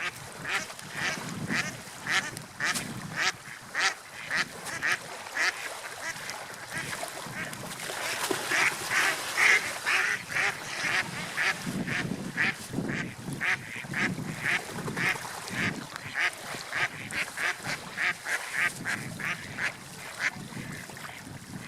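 Gulls calling: a long run of short, quickly repeated calls from several birds overlapping, loudest around the middle.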